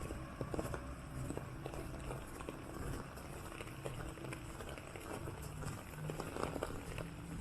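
Walking footsteps, with irregular light ticks and taps scattered through, over a steady low hum of city traffic.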